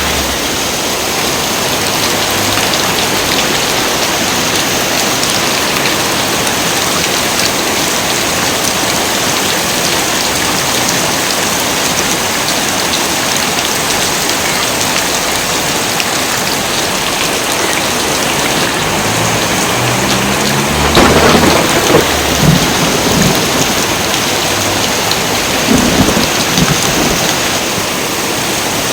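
Heavy rain pouring steadily, with rumbles of thunder about two-thirds of the way through and again a few seconds later.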